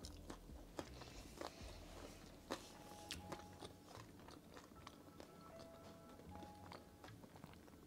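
Faint chewing of a mouthful of roast cauliflower and chickpeas with chapati, with soft clicks of the mouth now and then, over faint background music.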